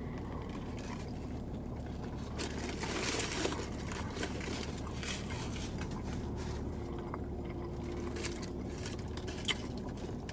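Faint chewing and the rustle of a paper sandwich wrapper, with a brief louder rustle about three seconds in, over a steady low hum inside a car's cabin.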